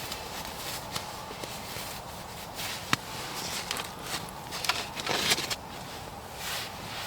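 Scattered sharp clicks and short bursts of rustling, with a louder click about three seconds in: small items and packaging being handled.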